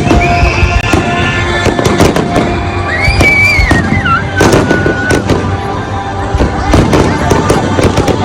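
Aerial fireworks going off in a dense barrage, many sharp bangs and crackles in quick succession, with music playing underneath.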